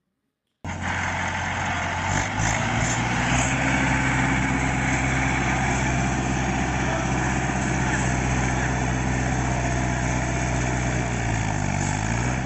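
Tractor engine running steadily, starting in after a brief silence about half a second in. Near the end its pitch dips briefly and comes back up.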